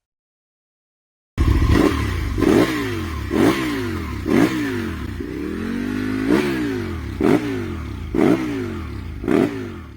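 Aprilia RSV Mille's big V-twin engine revved over and over, with about one throttle blip a second, starting about a second and a half in.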